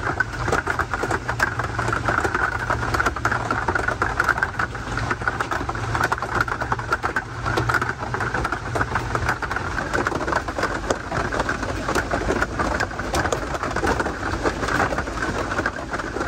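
Heavy rain falling steadily, with many close drop impacts, during a tropical storm; a low rumble underneath stops about nine seconds in.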